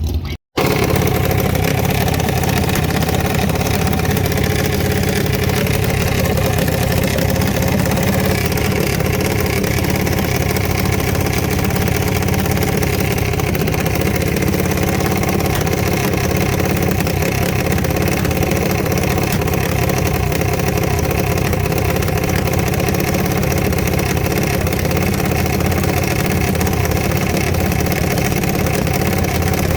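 Engine idling steadily, with no revving or change in pitch, after a brief cut to silence about half a second in.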